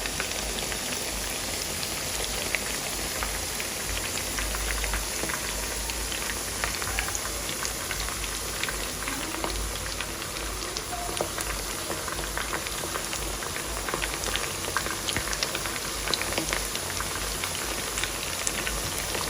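Batter-coated chicken pieces deep-frying in hot sunflower oil in a pan: a steady sizzle with many small crackles and pops.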